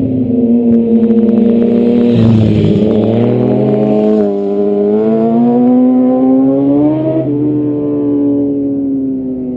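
A motorcycle engine revving through a bend: its pitch sags, then climbs steadily under acceleration and drops abruptly about seven seconds in at a gear change, before pulling on again.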